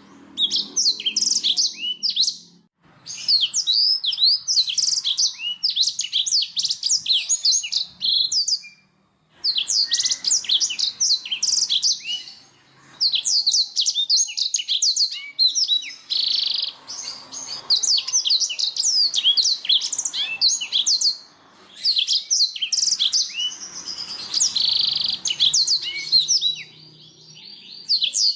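Domestic canary singing: long phrases of rapid, high chirps and trills, each a run of quick falling notes, broken by short pauses every few seconds.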